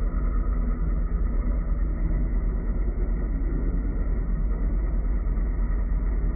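Heng Long Leopard 2A6 1/16 RC tank running, with a steady low engine rumble.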